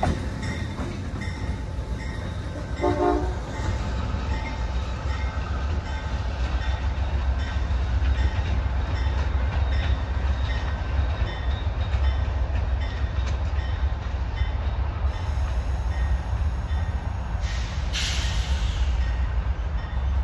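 Amtrak Downeaster train hauled by a GE P42 diesel locomotive moving away down the track: a steady low rumble with wheel and rail noise. A short horn note sounds about three seconds in, and a brief rush of hiss comes near the end.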